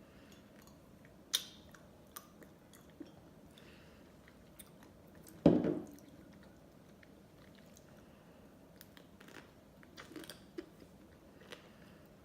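Close-miked mouth sounds of someone eating ice cream: scattered soft chewing, smacks and clicks, with one louder bite or slurp about five and a half seconds in.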